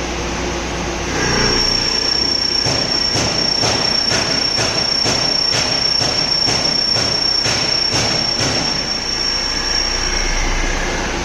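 CNC vertical drilling machine at work: a steady, high-pitched squeal starts about a second in and stops near the end, with evenly repeated ticks about two and a half times a second through the middle.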